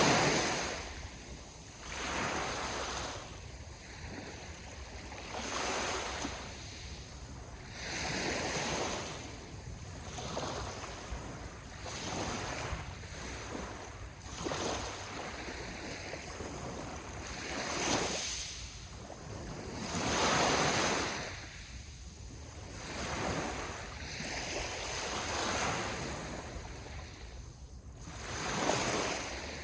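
Sea waves breaking and washing in, surging and ebbing about every two to three seconds.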